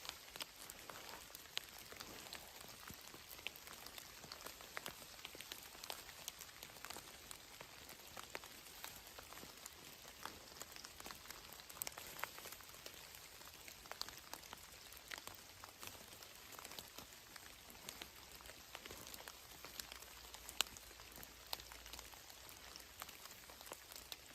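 Light rain: scattered drops ticking irregularly over a faint steady hiss.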